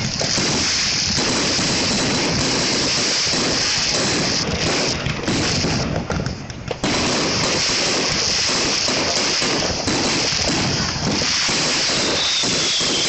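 Fireworks going off in a dense, continuous barrage of bangs and crackling, with a short lull about six seconds in. A falling whistle is heard near the end.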